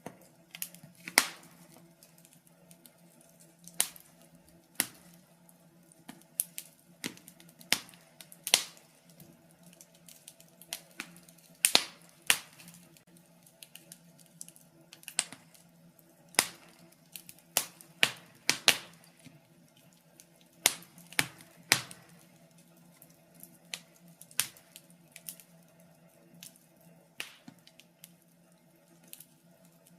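Wood fire crackling: irregular sharp pops and snaps, roughly one a second at uneven spacing, over a faint steady low hum.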